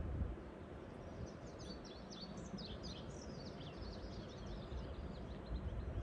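A songbird singing a fast twittering run of high chirps for about four seconds, starting about a second in, over a low background rumble.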